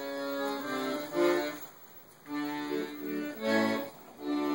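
Accordion playing behind a closed door: a run of short held notes and chords that breaks off briefly near the middle, then resumes.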